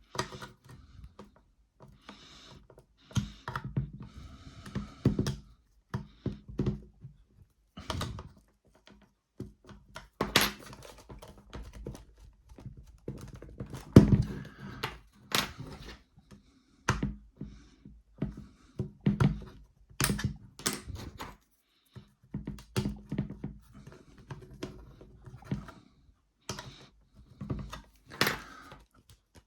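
Irregular clicks, taps and knocks of a plastic heat gun housing being handled and worked apart by hand, with one louder knock about halfway through.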